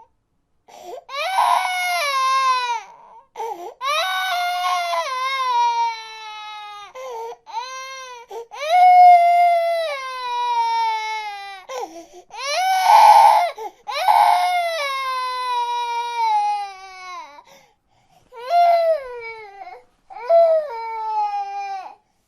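A baby crying in a run of long wails, most sliding down in pitch, with short gaps for breath between them; a few cries turn harsh and strained.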